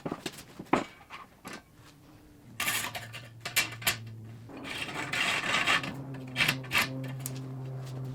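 Metalworking on steel: scattered sharp knocks and clanks with stretches of rasping and scraping, over a steady low hum that comes in about halfway through.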